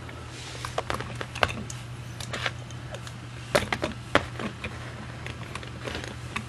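Small scattered clicks and light knocks of a diecast scale model being handled and turned by hand, the sharpest about a second and a half in and twice more around the middle, over a low steady hum.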